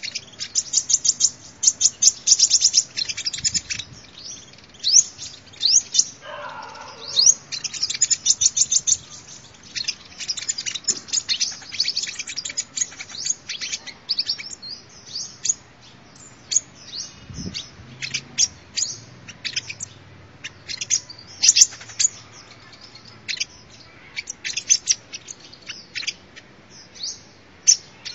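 Sunbird singing: rapid runs of high, thin chirps and short trills, broken by brief pauses.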